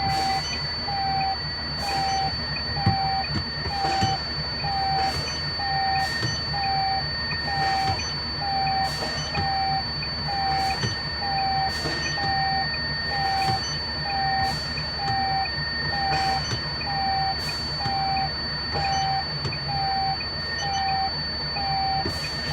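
An electronic warning beeper sounding short, evenly spaced beeps, about four every three seconds, over a steady low hum.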